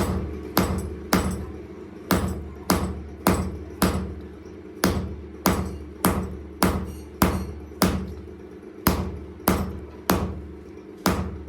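Hand hammer striking a steel workpiece in a steady rhythm, about two blows a second in runs of four or five with short pauses, each blow ringing briefly. A steady machine hum runs underneath.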